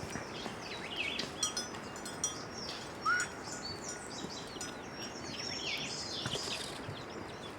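Small birds chirping and calling, many short high chirps and whistled notes overlapping, over a faint steady background hiss.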